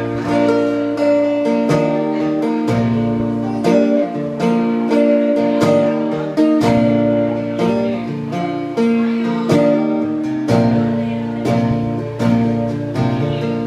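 Acoustic guitar strumming chords in a country song's instrumental break between verses, with a regular strum about once a second.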